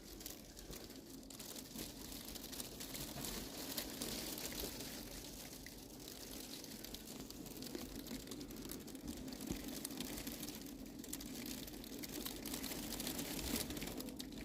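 Ice pellets and freezing rain falling, a dense patter of fine ticks, with a faint steady low hum underneath.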